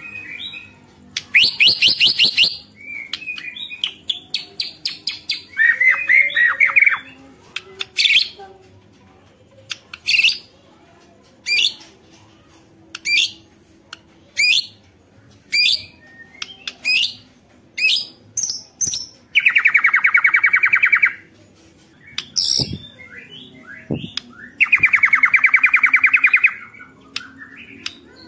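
White-rumped shama (murai batu) singing loudly: quick trills and warbled phrases, then a string of sharp rising whistled notes about one a second. Near the end come two long, rapid rattling trills, the shama's 'ketrekan'.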